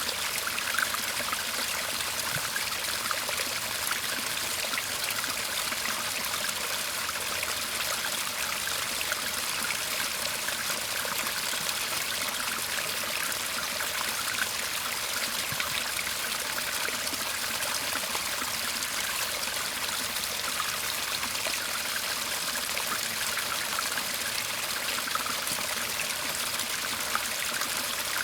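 Shallow garden stream murmuring over stones, a steady, unbroken trickling and babbling of running water.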